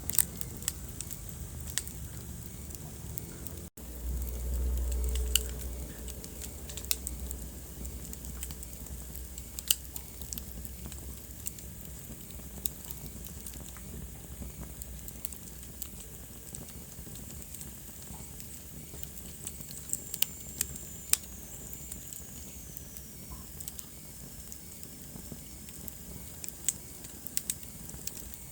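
Wood fire crackling in a fireplace: scattered sharp pops and snaps over a soft steady hiss. A low rumble of the fire swells for a few seconds after a momentary dropout near the start, and a faint high whistle slides down in pitch about twenty seconds in.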